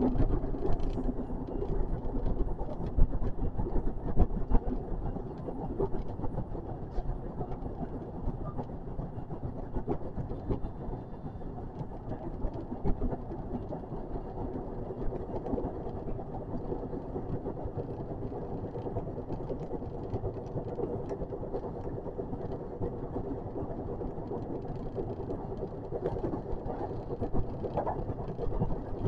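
JR West 521 series electric train running, heard from the front of the cab: a steady rumble of wheels on rail with a faint even hum and scattered light clicks. It is a little louder for the first few seconds, then settles.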